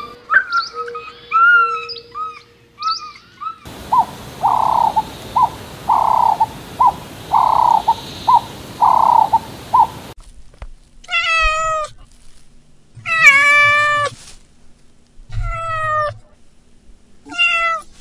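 Domestic cat meowing about four times in the second half, each meow a drawn-out cry that bends down in pitch at the end, the second the longest and loudest. Before that come short rising chirping calls, then a run of short repeated calls over a steady hiss.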